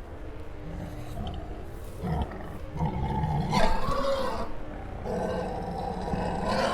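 Dinosaur roars from a sound effect or electronic toy, growling and roaring, louder from about two seconds in.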